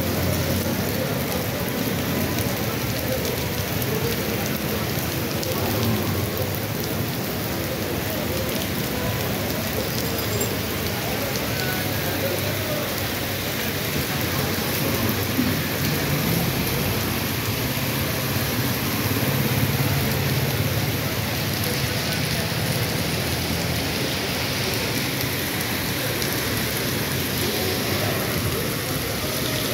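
Heavy rain pouring onto a flooded street, a steady hiss of water.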